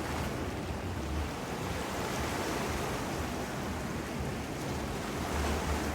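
Ocean surf washing steadily on the shore, with gusts of wind buffeting the microphone.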